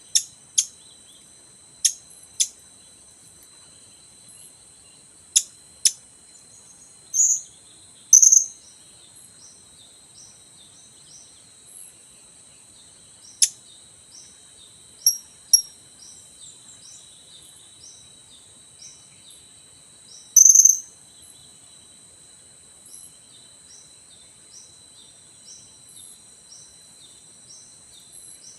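Blue-crowned hanging parrots (serindit) calling: short, sharp, high chirps, often two in quick succession, with a longer, louder call about eight seconds in and another about twenty seconds in. A steady, high-pitched insect drone runs underneath.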